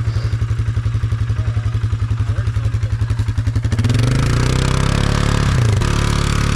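ATV engine running close by at a lumpy, pulsing idle, then revved up about four seconds in, easing off briefly before rising again.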